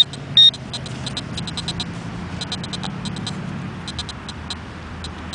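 Metal detecting pinpointer beeping: two loud, short high beeps near the start, then runs of rapid short chirps on and off as it is worked over a target in the hole. Underneath, a low hum of a passing car fades out.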